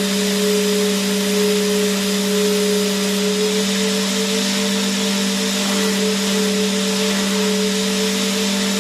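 Vacuum cleaner running steadily: a constant rushing hiss of air over a low motor hum and a higher whine, the whine wavering slightly in pitch from a few seconds in.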